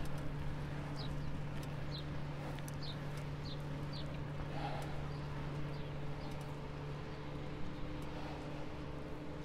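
A bird chirping, a run of short high falling notes repeated about every half second over the first few seconds, over a steady low hum and rumble.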